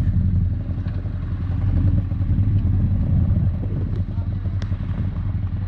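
Motorcycle engine running steadily with a low, pulsing rumble, and a couple of short clicks near the end.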